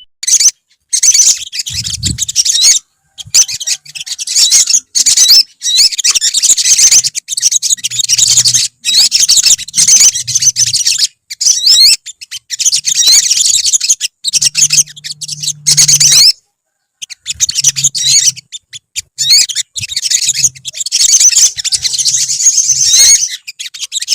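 Several olive-backed sunbirds singing together: rapid, high-pitched chirps and trills in dense bursts, broken by short, abrupt gaps.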